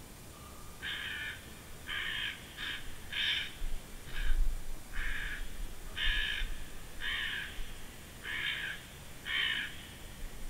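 A bird giving harsh, crow-like caws: about ten short calls, roughly one a second.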